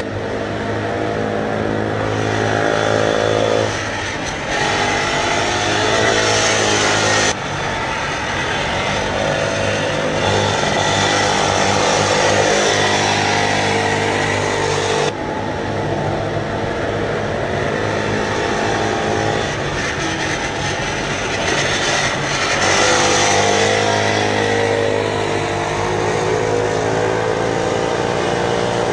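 Several mini MotoGP pocket bike engines running at high revs on track, holding a steady buzzing pitch and revving up and down. The sound changes abruptly twice, about a quarter and half of the way through.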